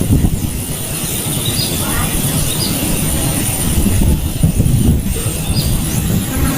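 Steady low rumbling noise with a few faint, short, high bird chirps about two and a half and five and a half seconds in, over a thin steady high tone.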